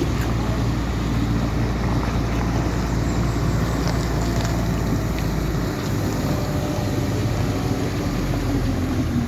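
A vehicle engine running with a steady low rumble, shifting a little about halfway through, over a noisy background hiss.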